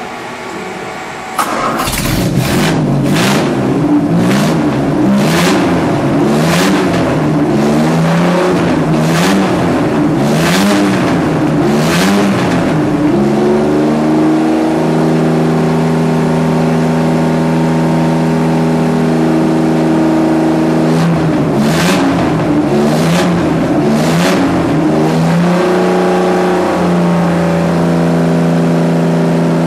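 Freshly rebuilt 1956 Jaguar XK140 3.4-litre twin-cam straight-six, run on a bench test stand, catches about a second and a half in. It is revved up and down in repeated blips, settles to a steady idle, is blipped again, then idles steadily.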